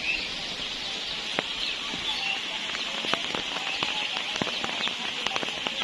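Birds chirping in short high calls over a steady high-pitched hiss, with scattered sharp clicks throughout.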